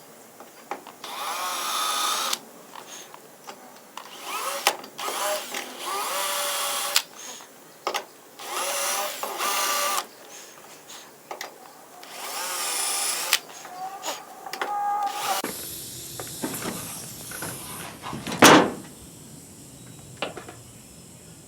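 Electric drill run in repeated short bursts on the steel roof skin of a 1963 Chevy truck, its whine rising and falling as it speeds up and slows down. A single loud knock comes near the end.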